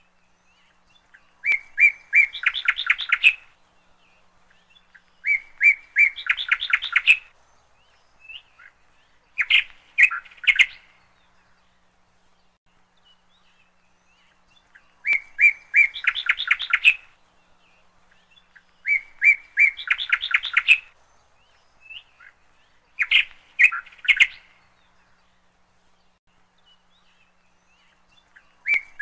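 A songbird singing the same short song over and over, about seven times: each phrase is a few repeated clear notes running into a fast trill, with pauses of a second or more between phrases.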